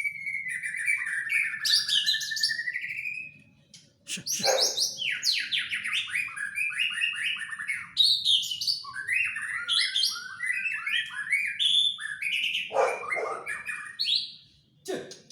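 Young white-rumped shama (murai batu), seven months old, singing: a long run of varied whistled phrases and quick series of notes that glide and step in pitch, with a short pause about four seconds in.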